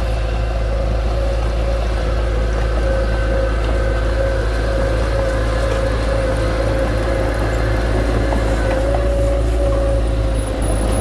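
Diesel engine of heavy earthmoving equipment running steadily, with a steady whine above the engine hum that wavers slightly in pitch.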